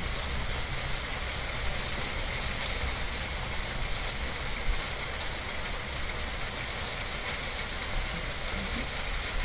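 Steady rain falling, an even hiss with a few faint light ticks.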